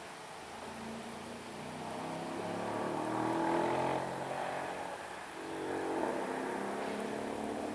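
Mercedes-AMG V8 engine accelerating, revving up to a peak about three and a half seconds in, easing off, then picking up again about two seconds later.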